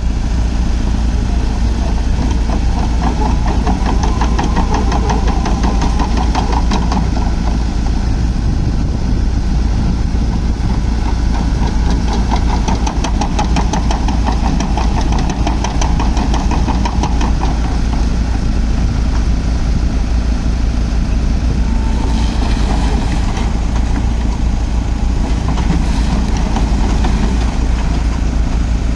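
Diesel engine of a Svedala Demag DF65C crawler asphalt paver running steadily, with a fast regular clatter coming and going over it.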